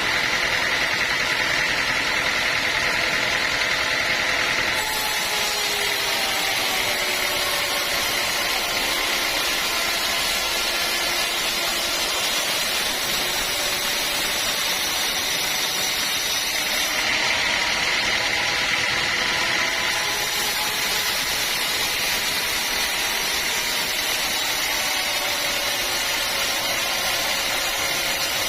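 Sawmill machinery running steadily, its sound changing in character about five seconds in and again for a few seconds past the middle.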